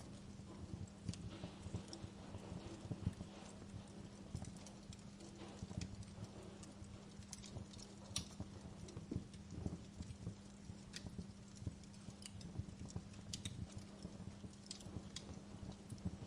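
Wood fire crackling in a fireplace: irregular sharp pops and snaps over the low rumble of the flames, with a faint steady hum underneath.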